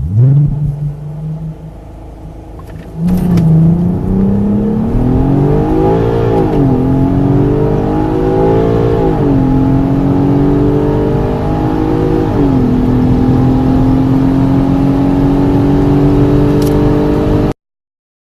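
A car engine at idle, then accelerating hard from a standstill, its note rising and dropping sharply at three upshifts before holding steady at speed. The sound cuts off suddenly near the end.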